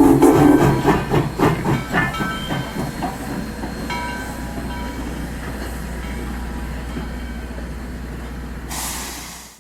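Steam train: a whistle blast ends about half a second in, followed by rapid even chuffs for a couple of seconds that settle into a steady running rumble, with a burst of steam hiss near the end.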